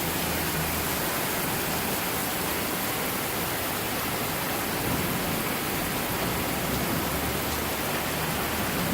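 Heavy rain falling steadily in a thunderstorm downpour, an even hiss.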